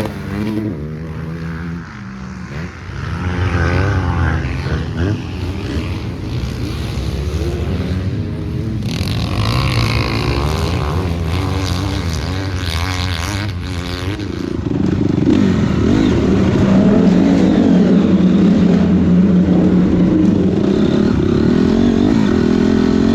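Motocross dirt bike engine revving up and down as it is ridden around the track, rising and falling with the throttle. From about two-thirds of the way in it runs louder and steadier.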